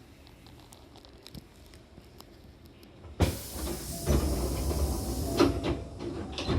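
Pneumatic sliding doors of a Hankyu train closing: a sudden loud hiss of air starts about three seconds in and runs for about three seconds, with knocks as the doors shut.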